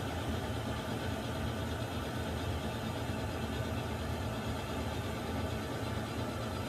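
Water heater running with a steady, unchanging low rumble and hiss.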